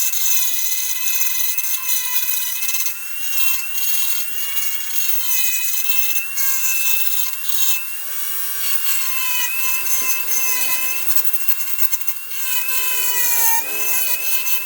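Electric grinder running and grinding away a plastic motorbike body panel at a misaligned mounting hole, its high whine wavering as the disc bites and easing off. The pitch sags under load near the end.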